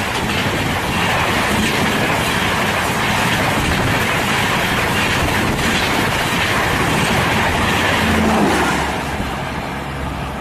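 Express passenger train passing close by at speed: a steady loud rush of coaches and wheels on the rails.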